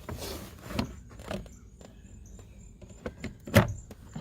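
Plastic under-dash trim panel being pushed back into place, its spring clips snapping in with a few sharp clicks and knocks, the loudest about three and a half seconds in.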